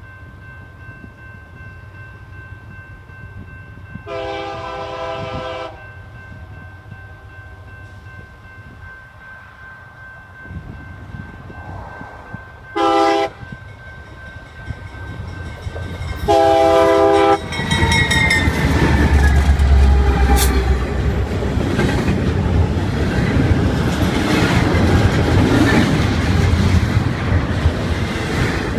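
Freight train locomotive's multi-note air horn sounding three times as the train approaches: a long blast, a short one, then another long one. Just after the last blast the locomotives pass close by with a loud, deep engine rumble. Then double-stack container well cars roll past with a steady clatter of wheels on rail joints.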